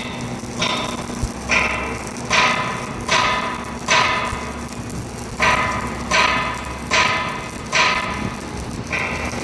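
A hammer striking steel, about ten ringing blows at a little under one a second, with a short break near the middle; a low steady hum sits underneath.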